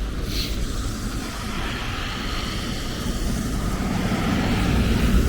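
Car traffic passing on a city street: engine and tyre noise, with a vehicle's rumble growing louder toward the end as it draws close.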